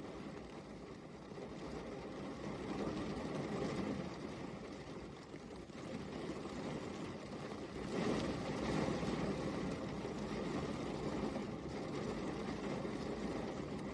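Steady rain falling, an even wash of noise that grows louder about eight seconds in.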